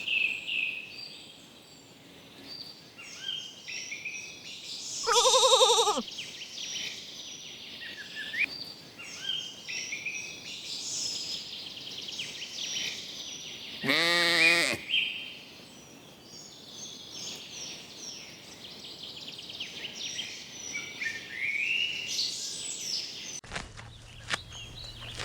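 Sheep bleating twice, a quavering call about five seconds in and a lower, longer one around fourteen seconds, with small birds chirping throughout.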